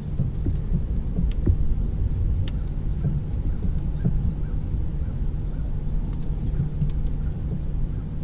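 Boat motor running steadily at low trolling speed, with scattered light knocks and clicks over it.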